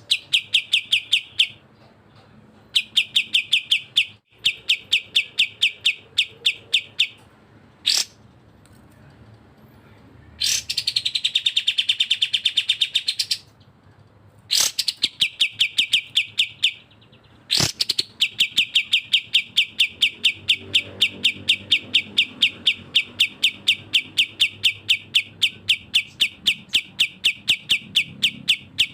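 Recorded bulbul song (cucak jenggot and kapas tembak): long runs of rapid, even, high chattering notes, about ten a second, broken by short pauses, with one drawn-out whistled note about halfway through and a few single sharp calls.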